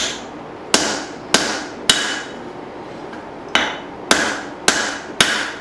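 Hand hammer striking a leaf-spring steel hatchet blank on an anvil: two runs of about four ringing blows, roughly two a second, with a short pause between the runs.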